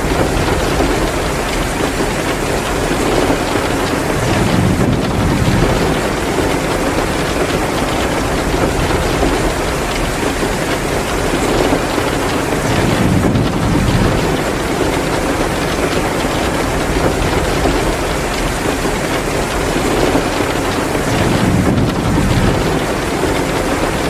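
Heavy rain pouring steadily, mixed with the crackle of a wood fire in a fireplace. A low rumble swells three times, about eight seconds apart.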